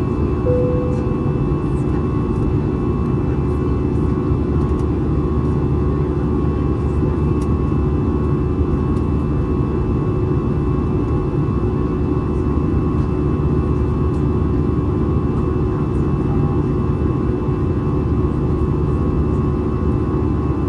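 Steady cabin noise of an Airbus A320 in flight, its CFM56 turbofans and the airflow making an even, low rush with a few steady hum tones. A short tone sounds about half a second in.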